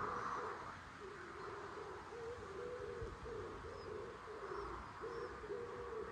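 A pigeon cooing in a steady run of short, repeated low notes, faint, with a few brief high chirps from another small bird.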